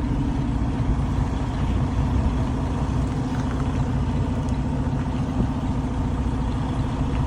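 Truck's diesel engine running steadily at low revs as the truck reverses slowly into a dock.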